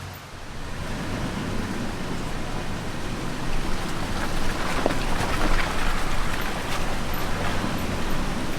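Toyota Tacoma driving along a rocky dirt trail: a steady rushing noise of tyres on the trail surface, with scattered small knocks and the engine low underneath. The noise builds over the first few seconds.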